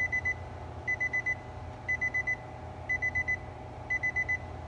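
Car's electronic warning chime with the ignition key on: rapid groups of four short high beeps repeating about once a second, over a steady low hum.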